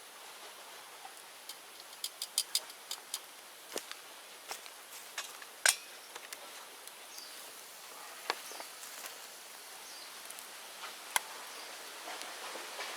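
Open bonfire of cleared bamboo crackling, with scattered sharp pops over a steady hiss. The pops cluster about two to three seconds in, the loudest comes near six seconds, and the hiss grows louder near the end.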